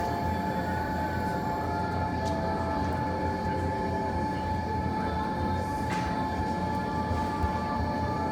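Steady low rumble with a constant thin whining tone over it, like building ventilation or machinery hum, and two faint ticks about two and six seconds in.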